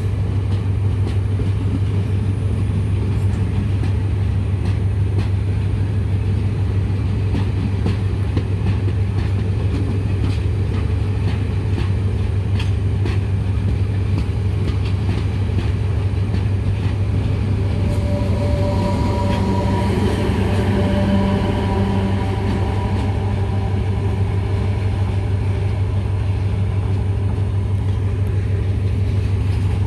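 A red diesel multiple-unit passenger train pulling out and rolling past, with a steady low drone and wheels clicking over rail joints. Partway through, a brief whining tone sounds over the drone.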